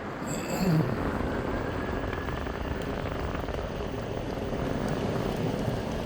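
Meepo Hurricane electric skateboard rolling at speed on honeycomb wheels, giving a steady rough rumble of wheels on pavement. A short, higher-pitched sound comes about half a second in.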